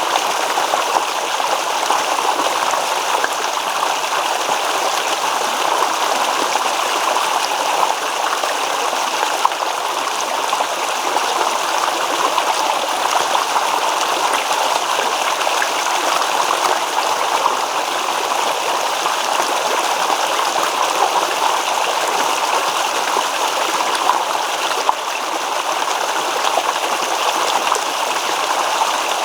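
A small stream babbling and trickling over stones, a steady rush of running water with fine splashing detail.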